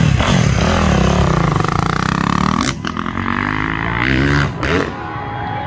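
Motorcycle engine revving, its pitch sweeping up and down, loudest in the first half and easing off about halfway through.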